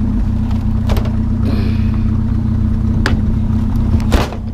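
A vehicle engine idling steadily, with a few short knocks and clatters over it.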